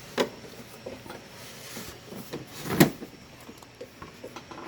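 Bearing separator puller set being handled: a few light clicks and knocks, with one sharp knock just under three seconds in.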